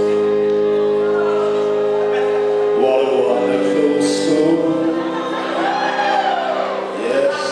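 A live band playing a slow song with a voice singing: steady held chords under a sung melody.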